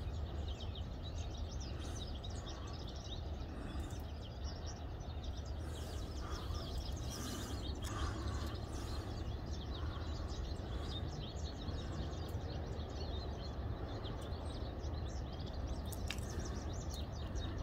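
Outdoor ambience: a steady background hum and hiss with small birds chirping throughout.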